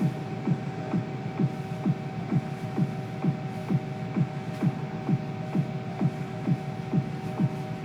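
A steady machine-like hum with a regular throbbing pulse: a short falling tone repeats evenly a little over twice a second.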